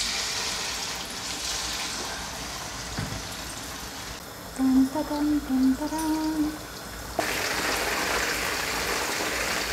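Chicken breast pieces sizzling as they fry in hot oil in a wok, a steady hiss. A woman hums a short tune about halfway through, and the sizzling grows louder near the end.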